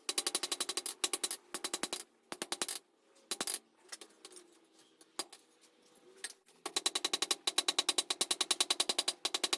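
Rapid, even hammer blows on hot steel over a ringing anvil while the reins of a pair of blacksmith's tongs are drawn out. A steady run of blows, then a lull with only scattered strikes, then another long run starting past the middle.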